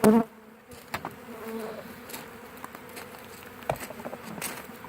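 Honey bee swarm buzzing in a steady hum as the bees make their way into a new hive, with bees fanning at the entrance. A short, louder close buzz comes right at the start.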